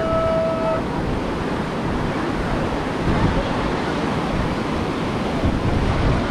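Steady wash of ocean surf breaking on a beach, with a short held tone in the first second.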